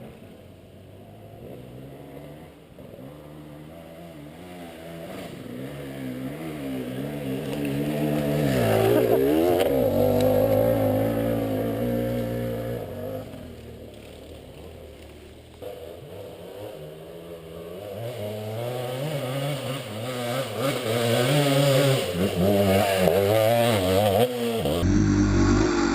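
Off-road motorcycle engines revving, the pitch rising and falling with the throttle. The sound builds to a loud peak about a third of the way in, fades, then grows loud again toward the end.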